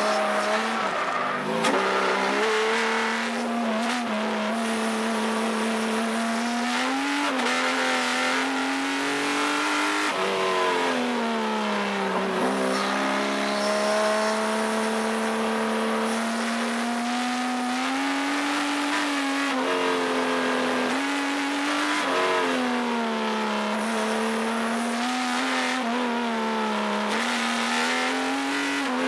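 Subaru EZ30 flat-six engine in a Porsche 914/6 driven hard on track: the engine note climbs steadily under throttle, then drops sharply at each gear change or lift, about half a dozen times.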